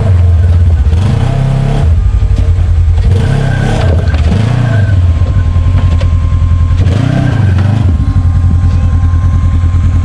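Side-by-side UTV engine running loud and close, revving up and dropping back three times between steadier stretches, as the machine works over rough trail.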